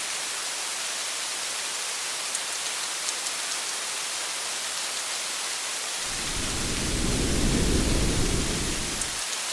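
Steady rain hissing on a car. About six seconds in, a low rumble of thunder swells and fades out about three seconds later.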